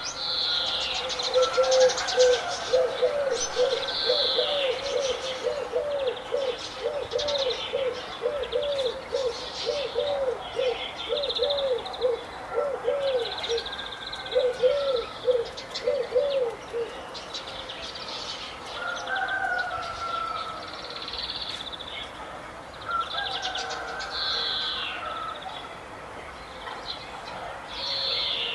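Birds calling together. A rapid run of low, arched notes, about two a second, lasts until a little past halfway. Over it, higher chirps and short warbled phrases repeat throughout.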